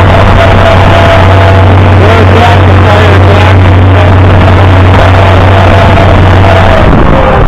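International Harvester 560 tractor engine running at a steady speed under way: a loud, constant low drone with a heavy rush of noise over it.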